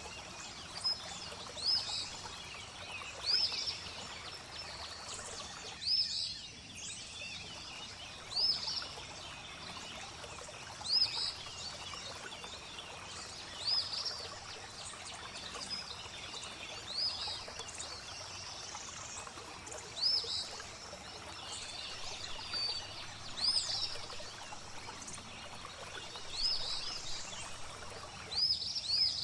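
Steady flowing, trickling water with small birds calling over it: short high chirps that recur every two to three seconds.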